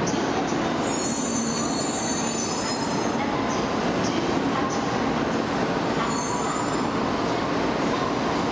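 E2 series Shinkansen train rolling slowly into the platform as it comes to a stop. A steady rumble runs under high-pitched squeals from the running gear, which come and go every second or two.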